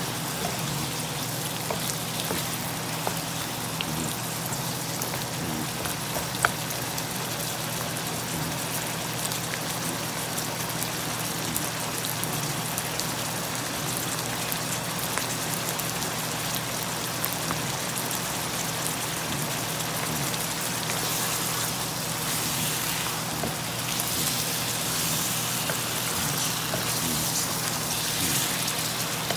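Chicken pieces and ginger-garlic paste sizzling and crackling in hot oil in a wok on high flame. A single sharp tick comes about six seconds in.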